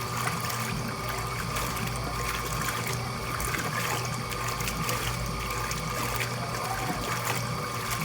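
Washing machine running with water in the drum: a steady motor hum under water swishing back and forth, repeating roughly once a second like an agitator working.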